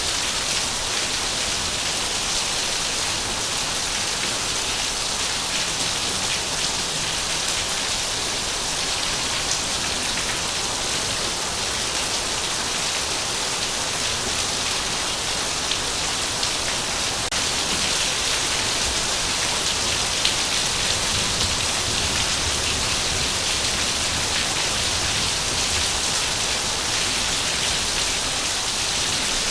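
Heavy rain falling steadily, a dense even hiss with occasional separate drop ticks.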